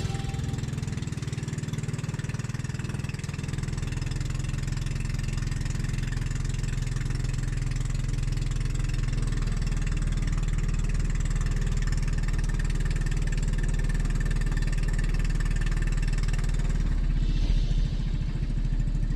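Small engine running steadily at an even speed, its firing a fast, regular pulse. A brief hiss comes in about two seconds before the end.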